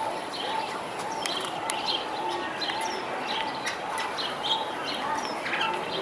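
Several birds chirping in a zoo aviary: scattered short high chirps, over a short lower note that repeats about twice a second.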